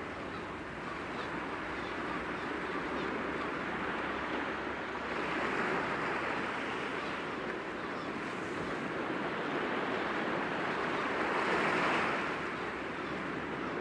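Sea waves breaking gently against rocks: a continuous wash of surf that swells twice, about five seconds in and again near twelve seconds.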